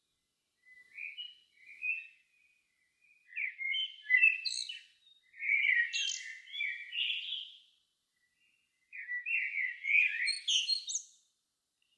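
Songbird singing at dusk: a run of varied, quickly changing warbled phrases with short pauses between them, the loudest in the middle and near the end.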